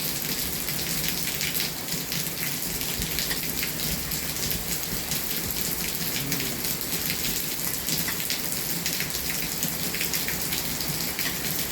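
Steady rain pattering on a surface, with a dense scatter of fine drop ticks.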